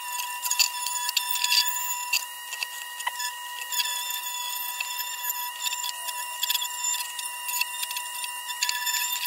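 Small high-speed rotary tool running with a steady high whine while its abrasive wheel scrubs paint off the lantern's thin tin, with many scratchy ticks as the wheel bites.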